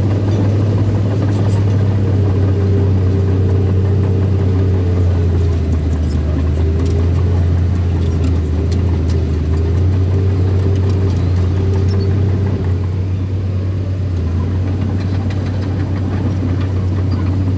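Small bulldozer's diesel engine running steadily with a deep low hum, easing off slightly about three quarters of the way through.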